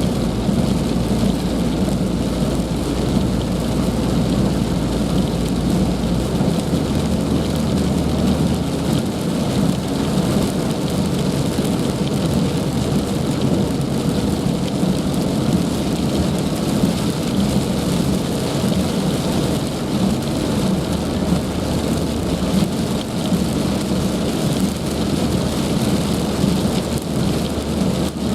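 Heavy rain pouring down steadily, an even, unbroken hiss of drops.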